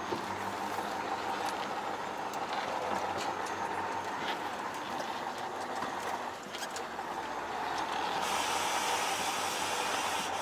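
MAZ-5440 truck driving off, a steady mix of engine and road noise that grows louder and hissier about eight seconds in.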